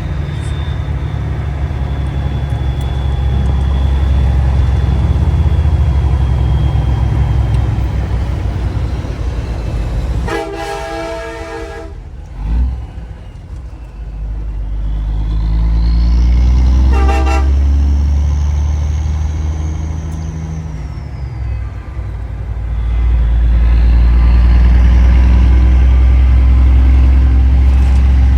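Big rig truck engine running with a heavy rumble that rises and falls, and a Nathan Airchime P3 three-chime air horn sounding twice: a chord of about two seconds about ten seconds in, then a short blast about seven seconds later.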